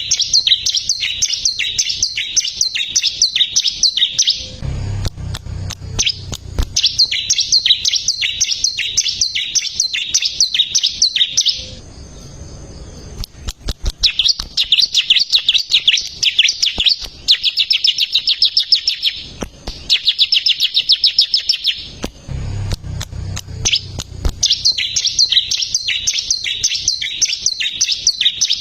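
Bar-winged prinia (ciblek) singing: long phrases of rapid, evenly repeated high chipping notes, each lasting several seconds, with short breaks between them.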